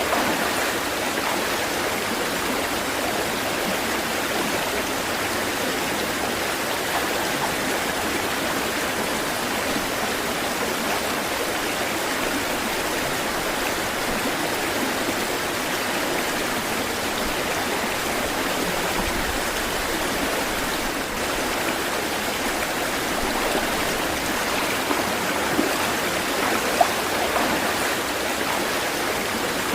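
Running water rushing steadily, like a stream or small cascade, with a few small splashes near the end.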